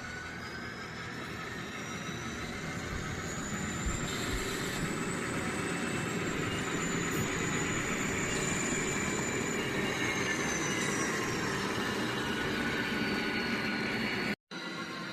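Model train locomotive running slowly with cars on the layout track. It makes a steady rumble, and a high whine rises and then slowly falls in pitch as the speed changes. The sound cuts out completely for a moment near the end.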